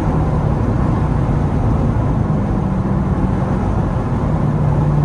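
Straight-piped Dodge Durango R/T V8 exhaust droning steadily at highway cruise. The pitch steps up slightly a little past two seconds in and settles back near the end.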